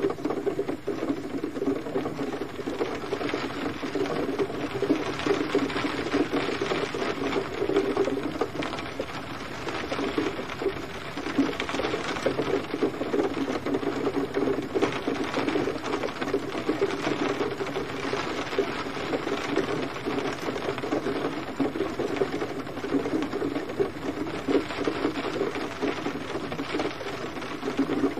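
Gentle rain falling steadily, a dense, even patter of many drops.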